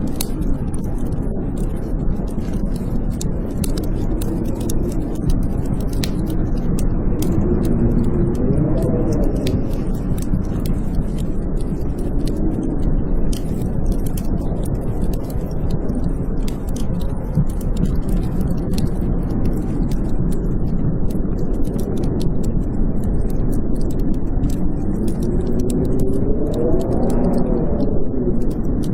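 Blizzard wind howling: a steady low roar with whistling gusts that rise and fall in pitch about a third of the way in and again near the end, over the crackle of a wood fire.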